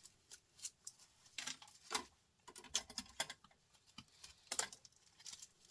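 Irregular light clicks and knocks of small scrap pieces, wire and printer parts, being handled and tossed about while a printer is stripped by hand.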